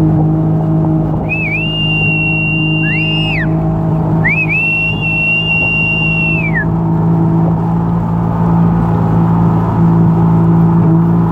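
Vehicle engine running with a steady low drone while driving. About a second in and again about four seconds in comes a long, high whistle tone, each one rising at the start and falling away at the end.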